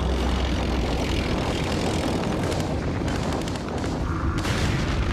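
War sounds: a heavy, low rumble of aircraft and explosions, with rapid gunfire starting about four seconds in.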